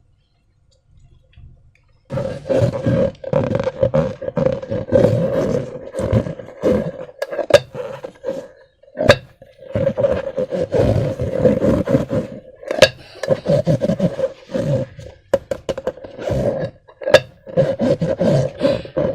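Slime-filled rubber balloons being squeezed and worked by hand, starting about two seconds in: irregular squelching and rubber rubbing with a steady droning squeak and scattered sharp snaps.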